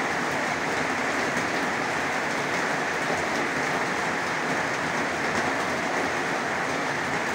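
Heavy rain pouring steadily: a dense, even hiss of a downpour with faint patter of individual drops.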